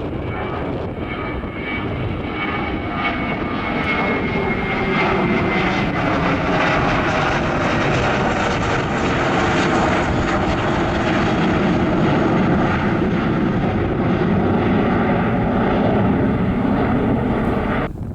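Airliner engines passing close by, the noise building over the first few seconds and holding loud, with a whining tone that slowly falls in pitch; it cuts off suddenly at the end.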